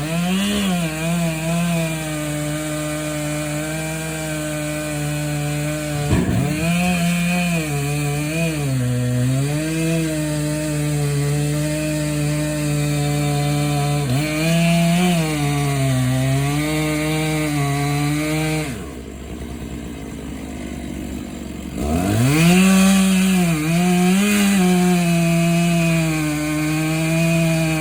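Large chainsaw cutting through an oak trunk: the engine runs at high revs, its pitch dipping again and again as it loads up in the cut. About two-thirds of the way through it drops to idle for about three seconds, then revs back up and cuts on.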